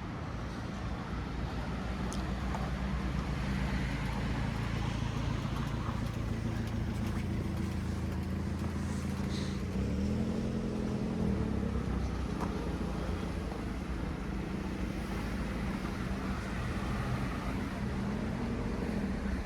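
Street traffic: car engines running close by, with an engine's pitch rising and falling about halfway through and again near the end.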